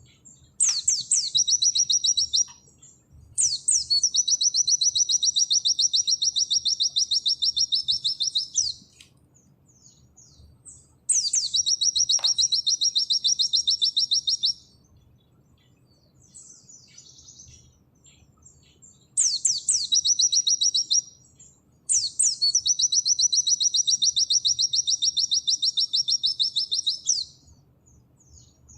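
White-eye (pleci) singing its rapid 'nembak' song: five long trills. Each opens with a few downward-sweeping notes and runs into a fast, even string of repeated high notes lasting about two to five seconds, with short pauses between trills.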